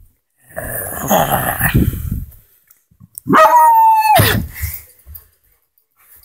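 Dogs play-fighting: a rough growling stretch, then one loud, high yelping cry that slides and falls in pitch about three and a half seconds in.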